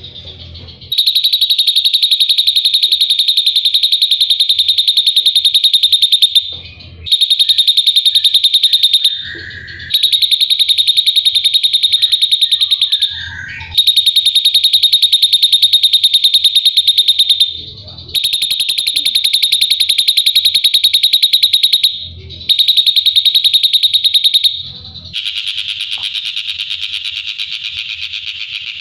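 Drongo song: long, very fast buzzing trills held at one high pitch, repeated in phrases of two to five seconds with short breaks between them; the last phrase is softer and coarser.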